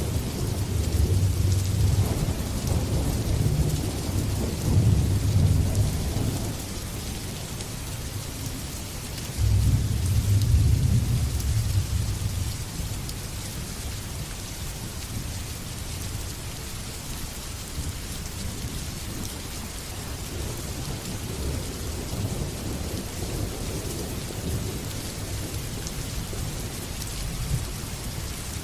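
Heavy rain falling steadily with rolling thunder: a long low rumble in the first few seconds, a second loud rumble about ten seconds in, then fainter distant rumbling under the rain.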